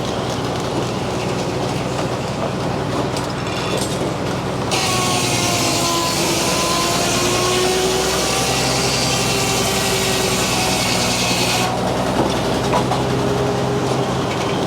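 Frick circular sawmill running steadily, then the blade cutting through a poplar cant for about seven seconds, a loud hiss with a wavering whine from the blade during the cut, which starts about a third of the way in and stops suddenly a few seconds before the end.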